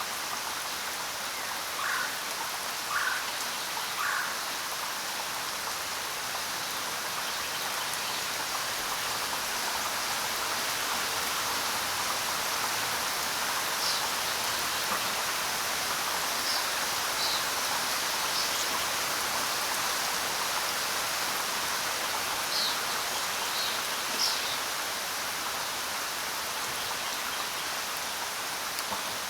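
Steady rain falling on the ground, an even hiss of drops. A few brief, sharper sounds stand out faintly above it, three early and several more in the middle.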